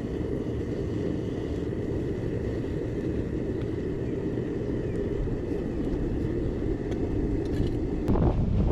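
Metal melting furnace burner running: a steady low roar with a faint high steady tone over it. Near the end it grows louder and rougher.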